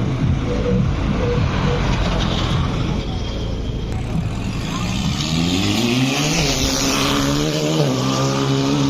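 Formula-4 race car engine revving: a dense rush of engine noise, then from about four and a half seconds in the pitch climbs and holds at a steady high rev.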